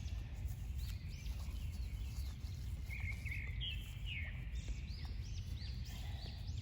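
Small birds chirping: many short, arched chirps repeating throughout, over a steady low background rumble.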